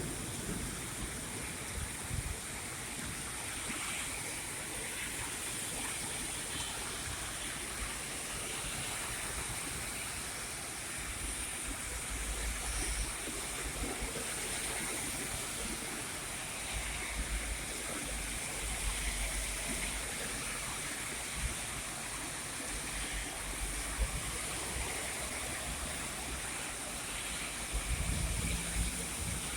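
Heavy rain with a steady rush of running water, broken now and then by low rumbles that grow stronger near the end.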